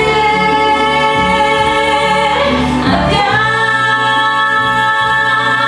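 A woman's pop singing voice holds long notes over a backing track, moving to a new held note about three seconds in.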